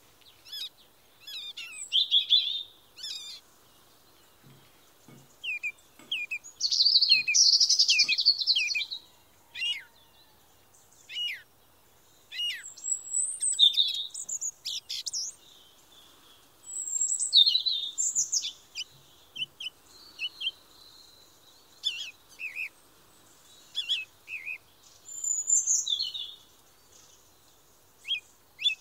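Songbirds singing: short bursts of high chirps and whistled phrases with brief pauses between them, and a longer rapid twittering run about seven seconds in.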